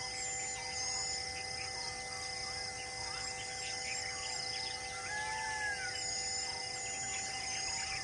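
Wild birds calling in scrub forest: many short high chirps and repeated slurred whistles, with a longer arched whistle about five seconds in, over a steady droning hum.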